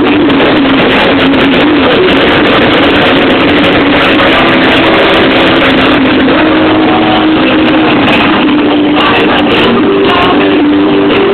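Loud rock music mixed with motorcycle engines running.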